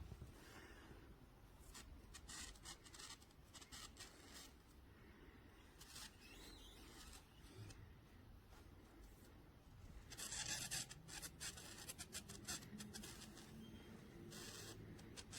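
Faint rustling and scratching handling noise, a little louder for a moment about ten seconds in.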